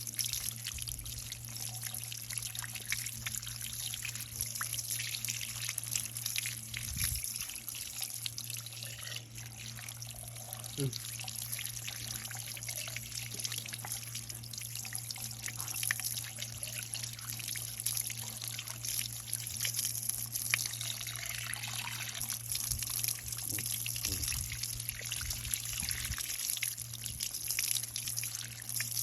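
Water trickling and bubbling steadily, with fine crackles throughout and a low steady hum underneath.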